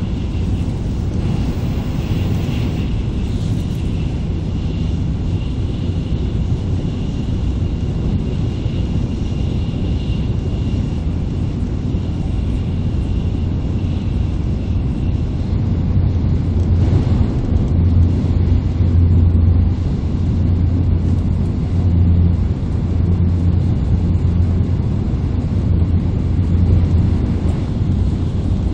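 Steady low rumble inside the passenger cabin of an N700A Shinkansen train running at speed, with a faint high whine during the first half. The rumble grows a little louder about halfway through.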